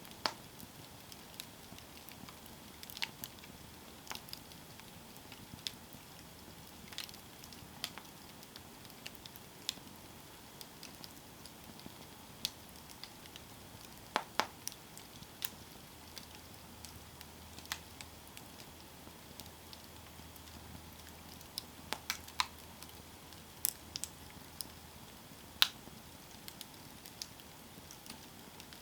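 Wood campfire burning: irregular sharp crackles and pops over a faint steady hiss, with the loudest pop near the end.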